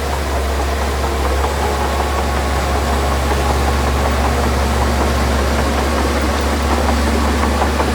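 Heavy machinery diesel engine running steadily with a deep, even hum.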